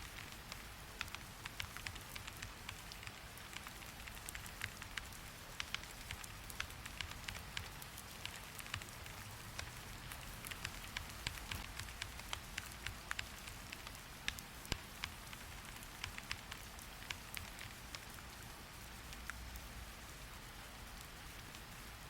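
Steady rain hiss with many short, sharp clicks scattered irregularly throughout, several a second.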